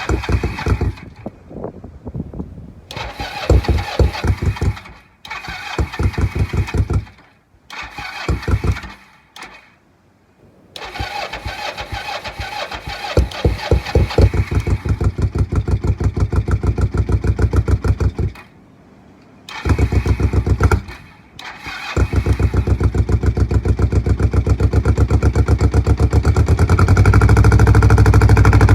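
Kawasaki Ninja 500 parallel-twin engine being cold-started in freezing weather: the starter cranks it in several separate tries with pauses between, then after about twenty seconds the engine catches and keeps running, getting louder near the end.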